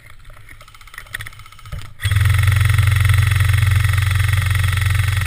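Airsoft electric gun firing a long full-automatic burst: a steady mechanical whirring rattle that starts abruptly about two seconds in and keeps going.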